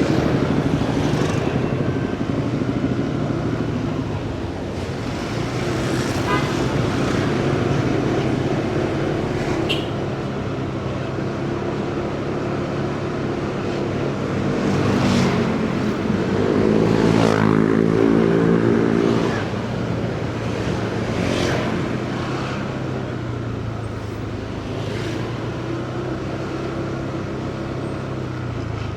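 Motorcycle engine running at road speed amid city traffic noise, with other vehicles passing close by. From about 16 to 19 seconds in, a louder engine rises in pitch as it passes.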